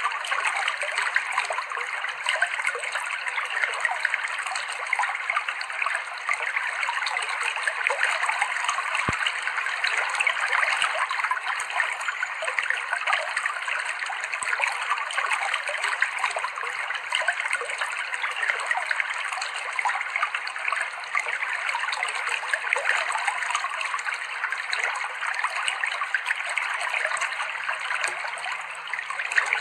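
Clear river water flowing and trickling over rocks, a steady unbroken babble.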